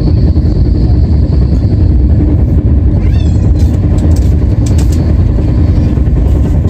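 Passenger train in motion: a loud, steady rumble of wheels on the track, with a brief wavering squeal about three seconds in.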